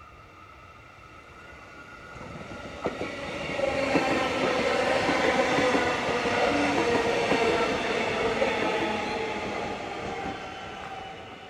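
Melbourne suburban electric train passing: it builds up over a couple of seconds, holds loud with wheel-on-rail noise, a few clicks and a steady whine, then fades away near the end.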